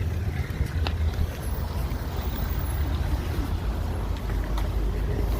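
Steady low hum of a car, heard from inside the cabin in an automatic car wash bay, with a few faint clicks.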